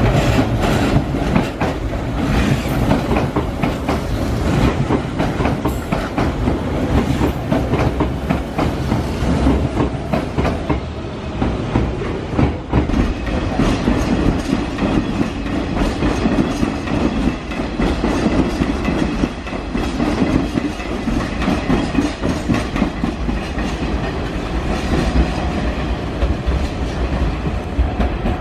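Hanshin Railway commuter trains running over the station's pointwork: a steady rumble of steel wheels with rapid, irregular clicking and clacking as they cross rail joints and turnouts.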